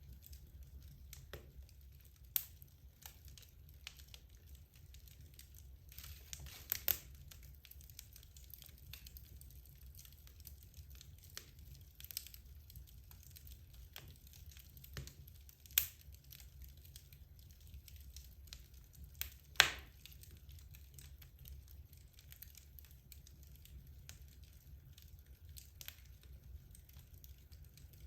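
Wood logs burning in a fireplace, with scattered sharp crackles and pops over a low steady rumble. The loudest pop comes about two-thirds of the way through.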